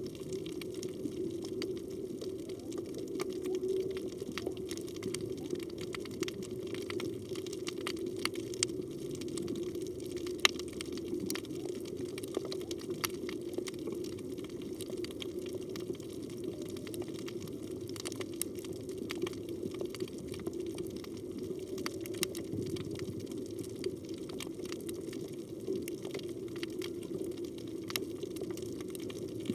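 Underwater reef ambience: a steady low rush of water with many scattered sharp clicks throughout.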